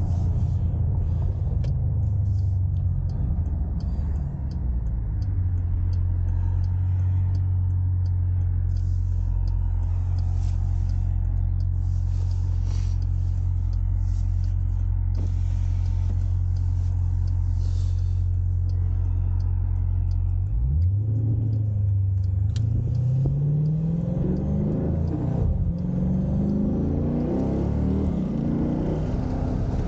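Dodge Durango SRT 392's 6.4-litre HEMI V8 running steadily at cruise with a low drone. About two-thirds of the way through the revs dip briefly, then climb as it accelerates.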